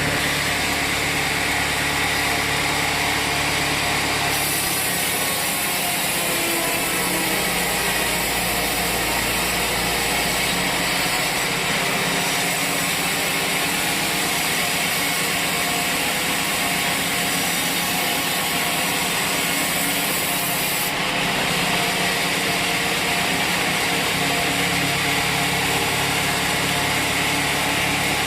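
Sawmill saw cutting through a log, over the steady running of the mill's engine. A higher cutting sound comes in about four seconds in and drops away about twenty-one seconds in.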